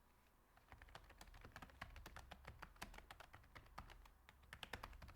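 Faint computer keyboard typing: a run of quick, irregular key clicks starting about a second and a half in.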